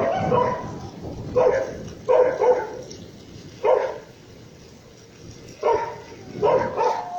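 A dog barking in short, separate barks, about six of them with uneven gaps, over a steady hiss of rain.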